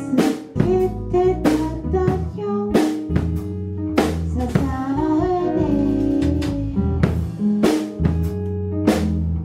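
Band music: a drum kit keeps a steady beat under held, pitched notes and chords.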